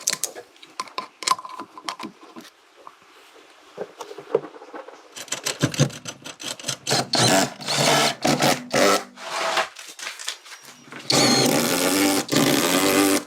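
Light clicks and handling noise, then a small power tool running in short bursts, then a steady run of about two seconds near the end.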